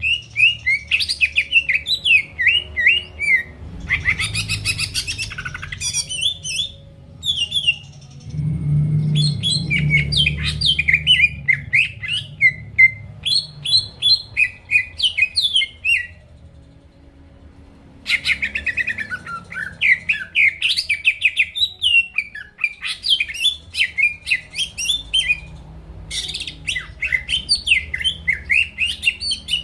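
Green leafbird (cucak ijo) singing at length: rapid, varied chirping and warbling phrases, with a harsher buzzy burst a few seconds in and a pause of about two seconds midway.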